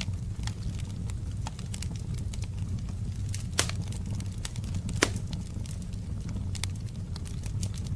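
Wood fire in a fireplace crackling: scattered small clicks with two louder sharp pops, about three and a half and five seconds in, over a steady low rumble.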